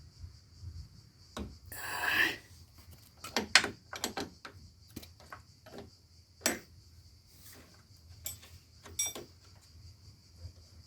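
Irregular clicks and knocks of hand tools working on the 10 mm bolts of the air-conditioning receiver dryer hoses, with a short scraping rub about two seconds in.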